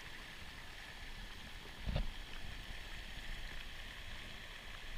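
Muddy floodwater of a desert river in flash flood, rushing with a steady noise. A brief low thump sounds about two seconds in.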